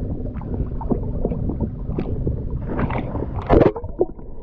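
Boat on the water: a steady low rumble with water gurgling and small knocks. A louder rush of noise comes about three and a half seconds in.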